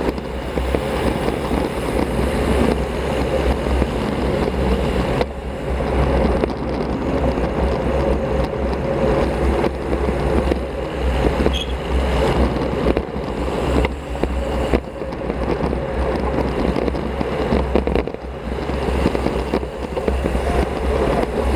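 Steady wind rush on an action camera's microphone while riding a road bicycle at speed, with road noise underneath.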